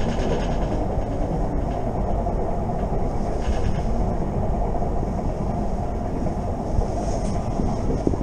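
Electric passenger train running at speed, heard from inside the carriage: a steady rumble of wheels on the rails, with a brief higher hiss swelling up three times.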